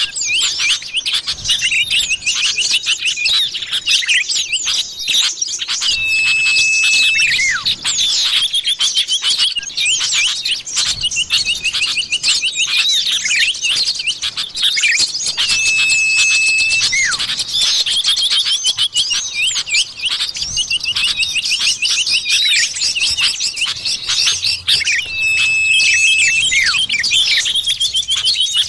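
Bird-lure recording of common iora (cipoh) calls: dense, rapid chirping and trilling, broken about every ten seconds by a long, level whistled note.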